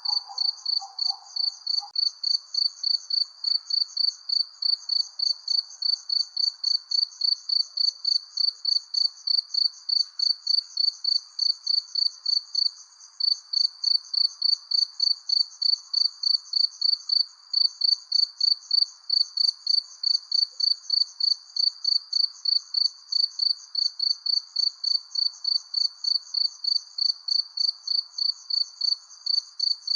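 Crickets chirping in a steady, even rhythm, about three chirps a second, with two short breaks in the chirping partway through. A faint hiss of night background lies under it.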